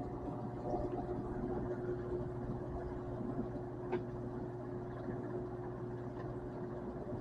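Microwave oven running while it cooks a cake: a steady hum, with one sharp click about four seconds in.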